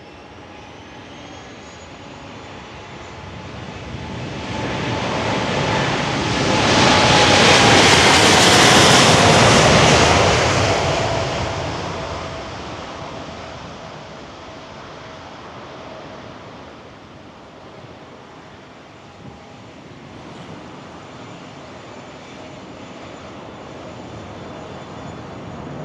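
Boeing 787-9 Dreamliner's GEnx turbofans at takeoff power as the jet rolls past. The sound builds to a loud peak about seven to ten seconds in, a tone in it dropping in pitch as it goes by, then fades to a distant rumble with a thin high whine.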